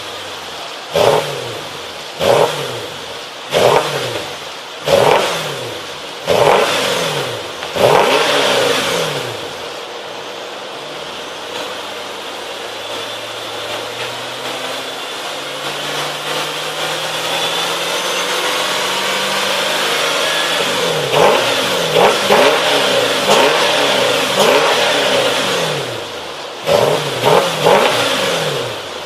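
Mercedes-Benz W221 S550's V8 exhaust through an aftermarket S63-style exhaust system, revved with a run of about seven quick throttle blips. It is then held at raised revs that slowly climb for about fifteen seconds, dropping back before a final three sharp blips.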